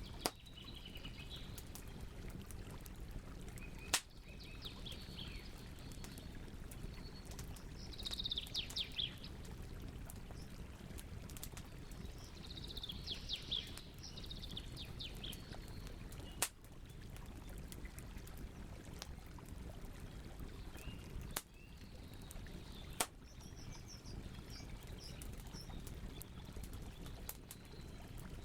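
Wood campfire burning with a steady low rumble and soft crackle, broken by a handful of sharp pops. Birds chirp in short trills now and then, most clearly about a third and halfway through.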